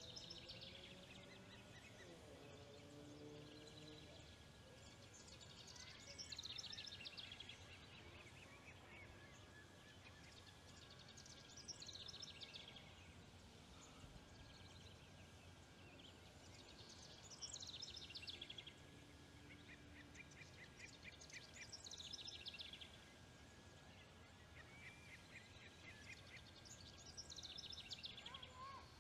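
Osprey calling faintly: bouts of quick, high chirps, each about a second long, repeating every five or six seconds, over a faint steady hum.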